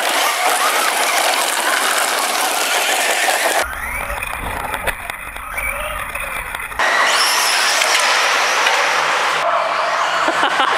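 Radio-controlled cars running flat out: a high motor whine that rises and falls over a dense rushing noise of tyres and wind. The sound changes abruptly twice, about three and a half and about seven seconds in.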